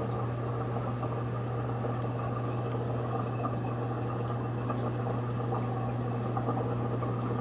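Magic Chef 1.6 cu ft portable washing machine draining: water gushes steadily from its drain hose into the sink over a constant low hum from the drain pump.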